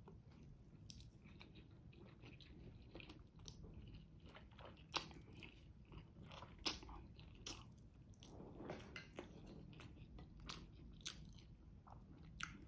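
Faint close-miked chewing of a mouthful of creamy spaghetti carbonara: soft wet mouth smacks and small clicks, with two sharper clicks about five and seven seconds in.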